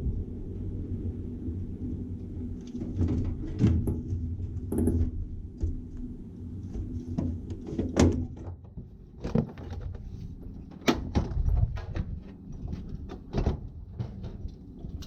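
Light aircraft's engine running low and steady in the cockpit, with a series of irregular knocks and clunks from about three seconds in.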